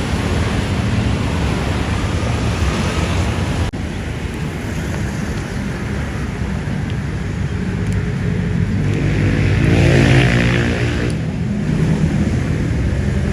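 Vehicle engines running steadily, with one vehicle passing close and loudest about ten seconds in.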